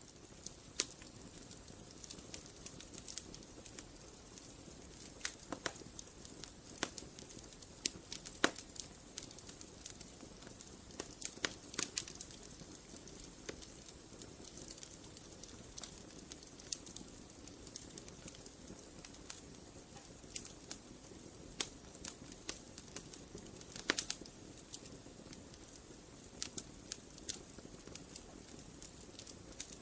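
Wood campfire crackling: irregular sharp pops and snaps over a soft steady hiss of burning.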